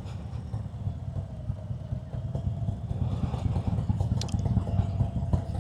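Harley-Davidson Road King's Milwaukee-Eight V-twin engine running under way, a low pulsing rumble picked up through helmet mics, with a brief sharp click about four seconds in.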